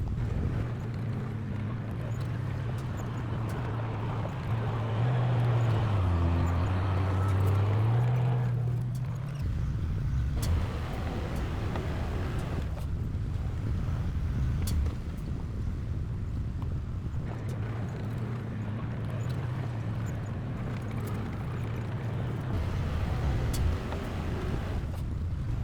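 Heavy construction machine's diesel engine running, its pitch dipping around six seconds in and then recovering.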